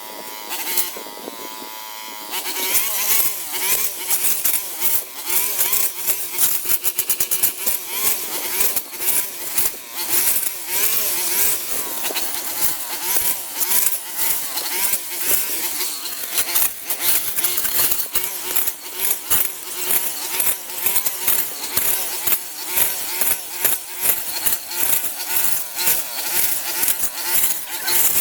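Small petrol engine running with its speed wavering up and down, coming in about two seconds in and carrying on.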